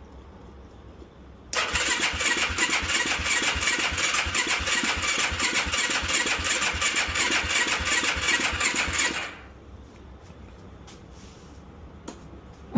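Yamaha YFZ450's carbureted single-cylinder four-stroke engine cranked on its electric starter for about seven seconds with steady compression pulses. It does not catch, and the starter stops abruptly: a struggling cold start, which the owner puts down to the engine not getting gas. A short knock near the end.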